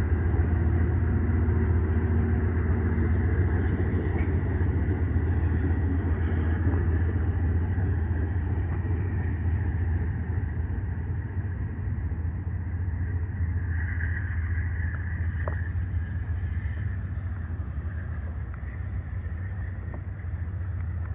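Train running past with a steady low rumble that slowly fades as it moves away. A short, higher-pitched squeal comes partway through.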